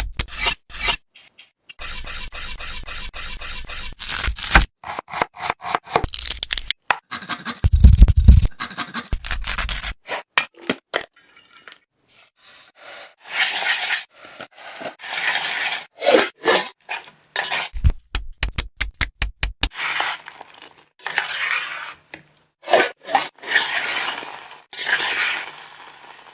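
Kitchen sounds in quick, abruptly cut segments: scraping, cracking and clinking of utensils and cookware, with a few deep thuds.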